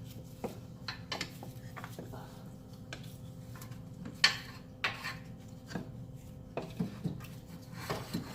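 Scattered metal clunks, knocks and scrapes as an AC compressor is worked loose from its bracket and lifted out of a car engine bay, with one sharp knock about four seconds in.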